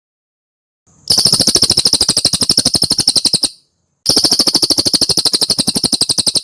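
Cililin songbird giving a fast, even chattering trill of about a dozen notes a second, in two bursts of roughly two and a half seconds each separated by a short gap.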